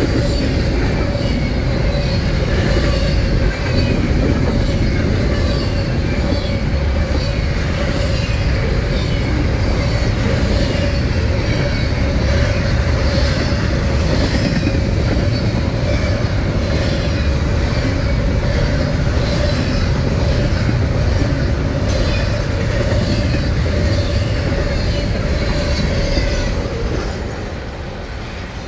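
Double-stack intermodal container cars of a freight train rolling past at close range: a steady rumble and clatter of wheels on rail, with a steady high tone held above it. The sound fades as the end of the train passes, about 26 seconds in.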